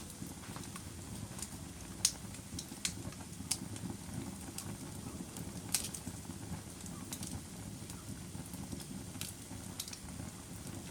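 Wood fire burning in a fireplace: a steady low rumble of the flames with sharp crackles and pops at irregular intervals, the loudest about two seconds in and again near the middle.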